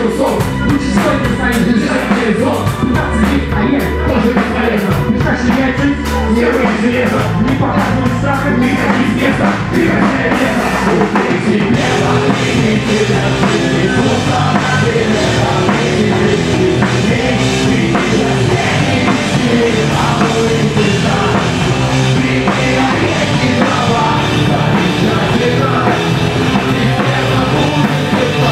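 Rock band playing loud and steady: a heavy instrumental passage driven by a drum kit, with no sung lines.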